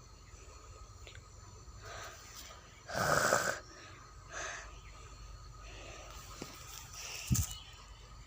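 A few short, breathy puffs of air close to the microphone, the loudest about three seconds in, and a short low thump near the end.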